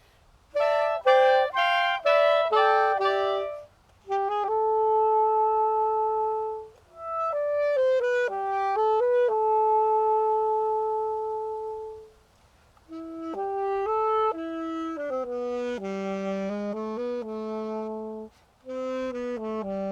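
Woodwind trio of flute, clarinet and saxophone playing in harmony. It opens with a run of short, detached chords, then moves into long held chords, with brief breaks between phrases.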